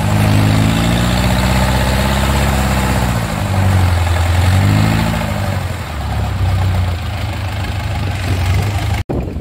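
Diesel engine of a Yanmar rice combine harvester running under load, its pitch sagging and recovering a few times as it labours in deep mud. The sound cuts off abruptly near the end.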